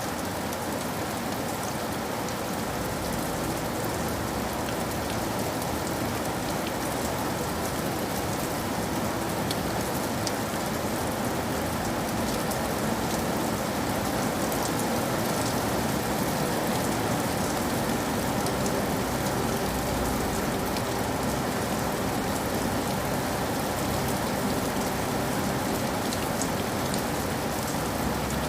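Steady rain falling, an even hiss with many fine drop ticks and no letup.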